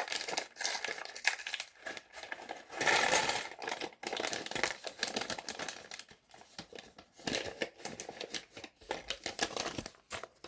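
Plastic parts bag crinkling and rustling, with small LEGO pieces clicking and rattling as they are handled and sorted. The crinkling is loudest for about a second, about three seconds in.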